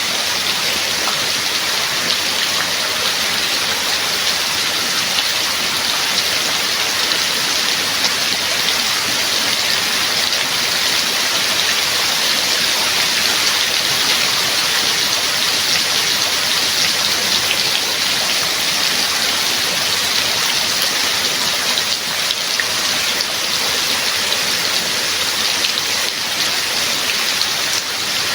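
Steady rain, a dense even hiss with fine drop patter and no thunder.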